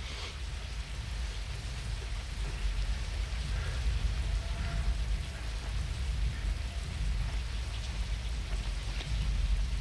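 Steady rain falling on a rooftop, with a deep, steady low rumble underneath.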